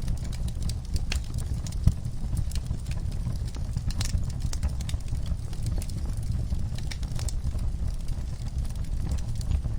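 Wood fire burning in a fireplace: irregular crackles and snaps over a steady low rumble of the flames, with one louder pop about two seconds in.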